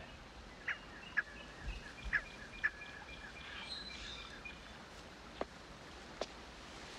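Birds chirping, with short calls and a few held whistled notes over faint outdoor ambience, then two soft clicks near the end.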